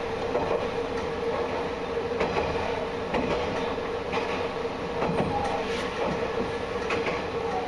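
Diesel railcar running along the line, heard from inside the cab: a steady engine hum with the wheels clicking over rail joints about once a second.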